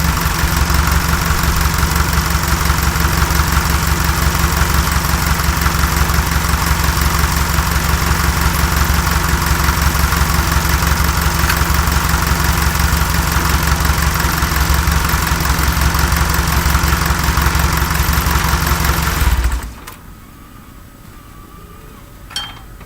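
Fiat 352C tractor engine running steadily with an even, rapid beat, then cutting off abruptly near the end. A short, sharp sound follows a couple of seconds later against a quiet background.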